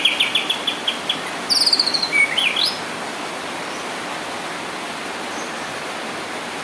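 White-rumped shama singing: a fast run of repeated chirps, then a short burst of higher trilled and sweeping notes. The song stops a little under three seconds in, leaving a steady hiss.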